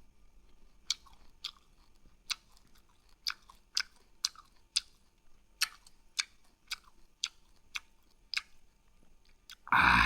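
A person chewing, with sharp wet mouth clicks about twice a second, then a louder, fuller noise near the end.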